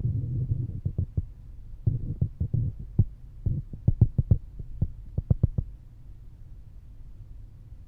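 Low rumble inside an airliner cabin, broken by irregular knocks and thumps in quick clusters that die away about six seconds in, leaving a fainter steady rumble.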